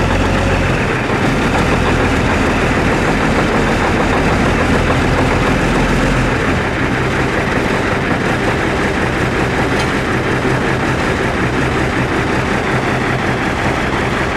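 Cummins L10 inline-six diesel of a 1990 Volvo GM semi-truck idling steadily just after a cold start in freezing weather. Its low rumble eases slightly about a second in and again around six seconds in.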